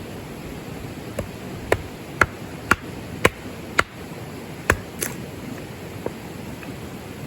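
A run of about eight sharp knocks, roughly two a second, that stops about five seconds in.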